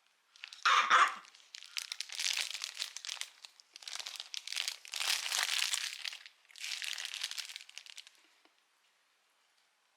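A short, loud sound about a second in, then several bursts of crinkling, rustling noise that stop about eight seconds in.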